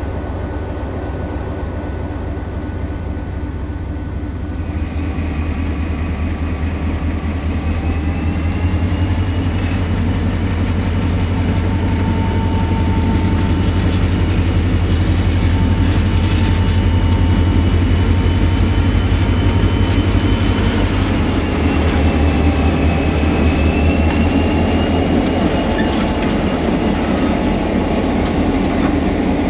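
EMD 645E3C V16 turbocharged diesel running loud and unmuffled as the locomotive works. About four seconds in the engine loads up: its note builds and a high whine from the turbocharger climbs over the next ten seconds, then holds steady.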